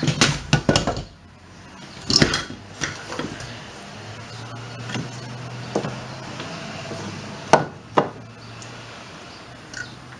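Knocks and clatter of wooden framing lumber being worked into place: a quick run of sharp knocks at the start, another about two seconds in, lighter taps after, and two sharp knocks about half a second apart near the end. A faint low hum sounds in the middle.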